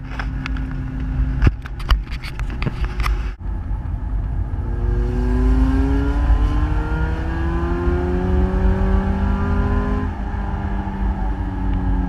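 Car engine heard from inside the cabin, its pitch climbing steadily for several seconds as the car pulls, then dropping back about ten seconds in and holding steady. Over the first three seconds, knocks and rubbing from the camera being handled right at the microphone.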